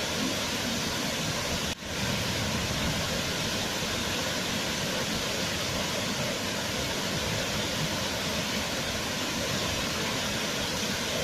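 Waterfall pouring, a steady, even rush of water. About two seconds in, the sound drops out for an instant and comes straight back.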